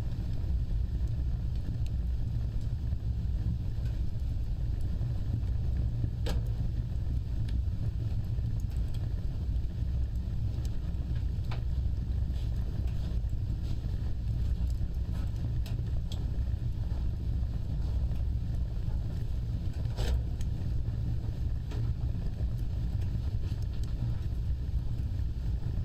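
Wood fire burning: a steady low roar of flames with scattered sharp crackles and pops, the clearest about six seconds and twenty seconds in.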